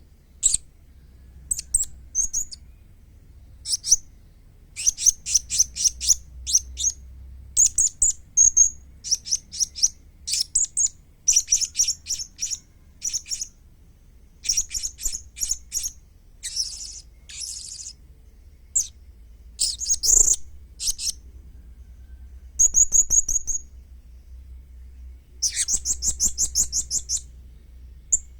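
Young blue-crowned hanging parrot (serindit) calling: rapid runs of high, thin chirps in short bursts with brief pauses between, over a faint low hum.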